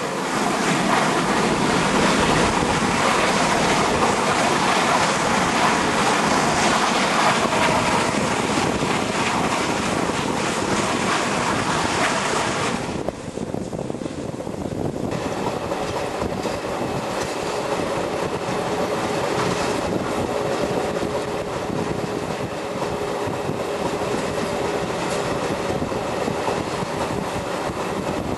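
Steam-hauled train running along the track, a continuous rushing noise. The upper part of the noise dips for about two seconds around the middle, and a faint steady hum joins in after that.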